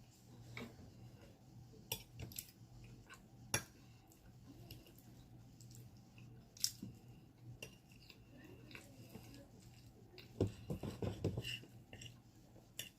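A fork or spoon clicking and scraping against a plate or bowl in scattered single clicks, with soft chewing and mouth sounds, which come in a denser run near the end.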